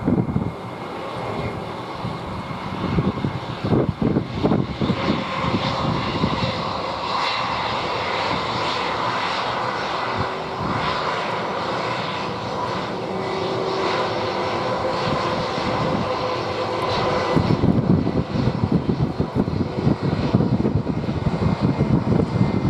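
Airbus A319's IAE V2500 turbofan engines running steadily as the jet lands, with a few faint held tones over a broad rush. Gusts of wind buffet the microphone at the start and again in the last few seconds.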